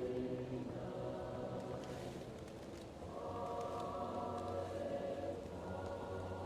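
Choir singing slow, held chords, muffled as if heard from another room, moving to a new chord about halfway through. Faint fireplace crackles tick over it.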